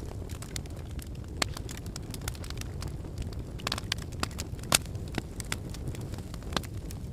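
Wood fire burning in a fireplace: a steady low rumble of flames with irregular sharp crackles and pops from the burning logs, the loudest pop a little under five seconds in.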